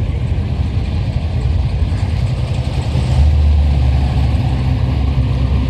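A car engine running with a low rumble, growing louder for a couple of seconds about three seconds in.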